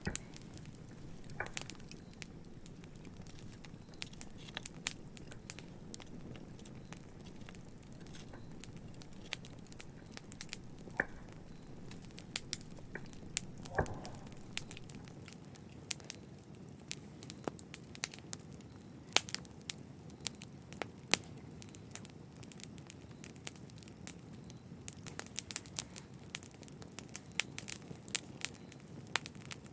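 Wood fire crackling in a fireplace: irregular sharp pops and snaps over a low steady rush of burning, the pops coming thicker toward the end.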